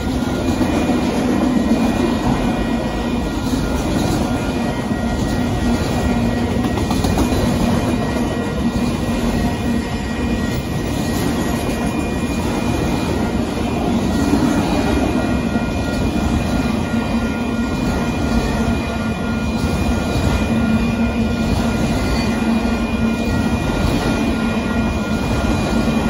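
Autorack freight train cars rolling steadily past a grade crossing: a continuous rumble and rattle of wheels on rail, with thin high tones that come and go.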